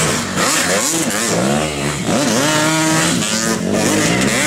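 Dirt bike engine being ridden hard, its pitch rising and falling several times as the throttle is opened and eased off.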